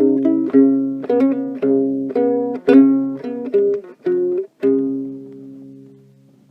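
Ukulele played in quick plucked chords, about two a second, then a final chord just under five seconds in that rings and fades away.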